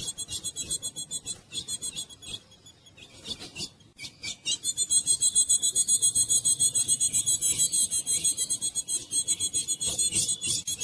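Female ultramarine grosbeak (azulão) calling: a fast, high-pitched rattle of rapidly repeated notes, about eight to ten a second. It falters and thins about a third of the way in, then comes back louder and keeps going steadily.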